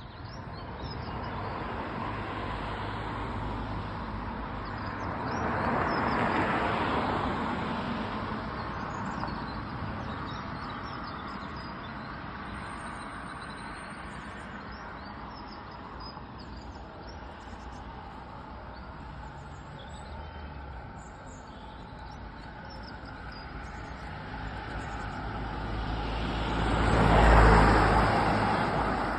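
Road traffic: a steady hum of vehicles, with one vehicle passing about six seconds in and a louder one passing near the end.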